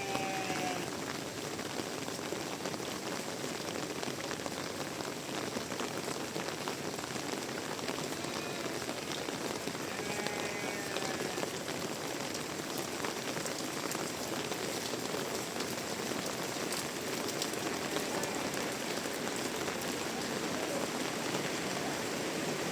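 Heavy rain falling steadily, an even dense hiss of rain on surfaces.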